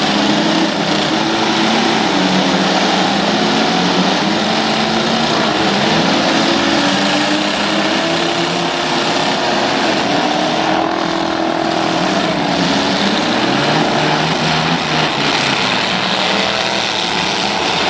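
Several engines of full-size demolition-derby trucks and vans revving at once, their pitches rising and falling independently over a loud, steady din.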